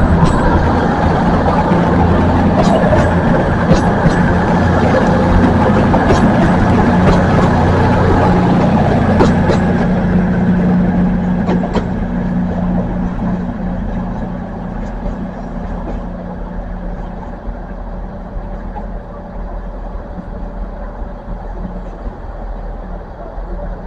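Diesel train engine running with a steady low drone, which fades away from about ten seconds in as the train moves off.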